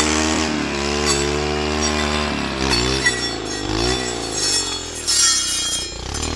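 An engine running, its speed rising and falling several times.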